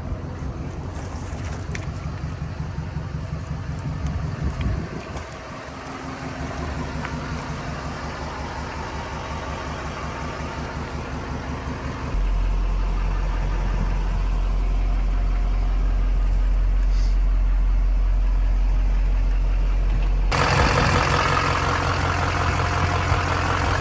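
The GMC C5500's 6.6 L Duramax turbo diesel idling steadily. The tone changes abruptly about 5, 12 and 20 seconds in, growing louder and deeper at 12 s and harsher at 20 s.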